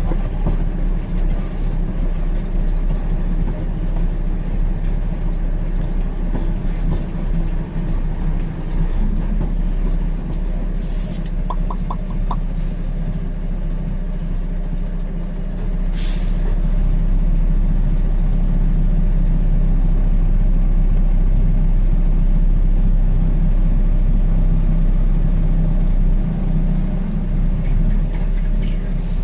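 Heavy dump truck's diesel engine running steadily, heard from inside the cab, getting louder partway through as it pulls ahead. Two short air-brake hisses cut in, the second a few seconds after the first.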